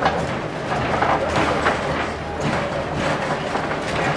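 Passenger railcar of a heritage train rolling along the track: a steady rumble and rattle of wheels on rails, with scattered clicks.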